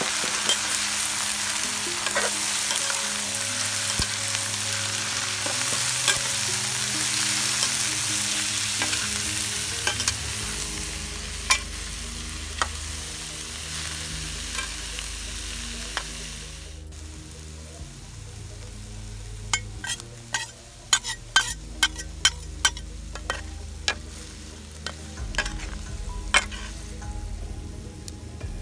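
Pieces of eel frying in a wok, sizzling while a spatula stirs them. The sizzling cuts off suddenly a little past halfway, then a run of sharp knocks and taps follows.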